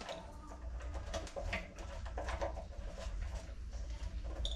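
Scattered light clicks and taps of hand work on a water heater's ground wiring, over a low steady hum.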